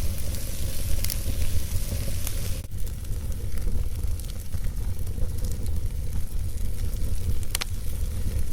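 Wood fire burning in a fireplace: a steady low rumble and hiss of the flames, with a few sharp crackles, the clearest about a second in and near the end.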